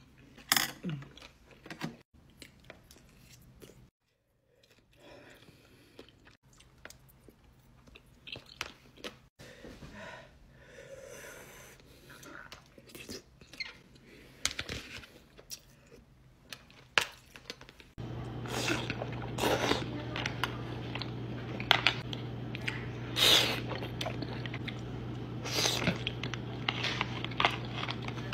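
Close-miked eating of soup dumplings: chewing and biting, with sharp clicks scattered throughout. About eighteen seconds in, a steady low hum starts and the eating sounds become louder and more frequent.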